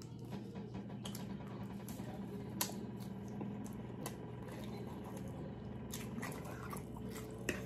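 Soft, close eating sounds: chewing with small wet squishes and a few sharp isolated clicks, over a low steady hum.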